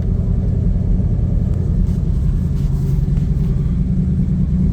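1978 Chevy Custom Deluxe 30 dump truck's 350 V8 running steadily while the dump bed is lowered.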